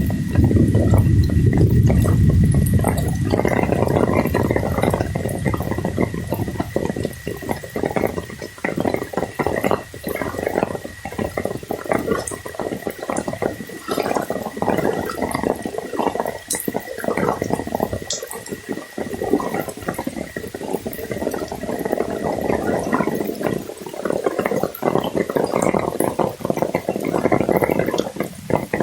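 Water sloshing and splashing, heavy and rumbling for the first few seconds, then coming in choppy, uneven surges. A thin steady high tone runs underneath until a few seconds before the end.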